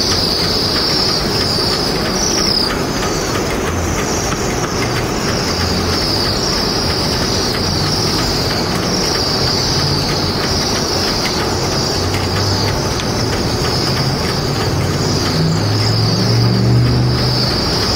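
A flock of cedar waxwings calling together: a continuous chorus of high, thin, overlapping whistled calls, over a steady noisy background rumble.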